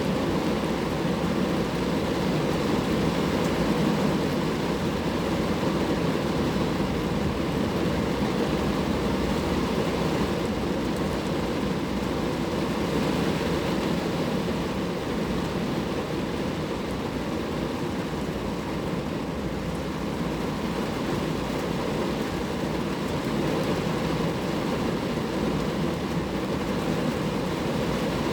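Steady rain falling on a car, an even dense hiss with no break and no single drops standing out.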